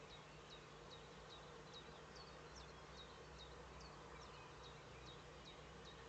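Faint, rapid series of short high chirps from a small songbird, each note dipping in pitch, about two to three a second, over a low steady hum.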